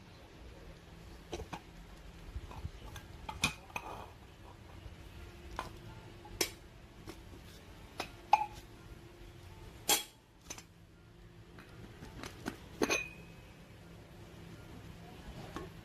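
Aluminium moka pot being handled: scattered light metallic clinks and knocks, about a dozen, a few with a short ring.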